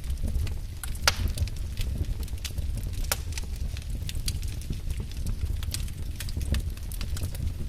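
Wood fire burning in a fireplace: a steady low rumble of flames with irregular sharp crackles and pops, the loudest about a second in and again about three seconds in.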